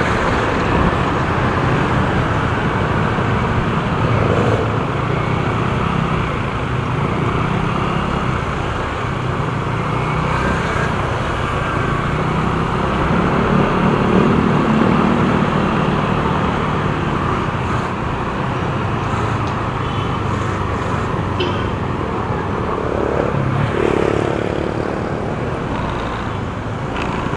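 Steady road and traffic noise heard from a motorcycle riding through city traffic.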